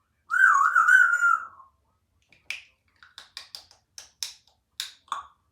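Congo African grey parrot giving a loud, wavering whistle, then a run of sharp clicks, about four a second.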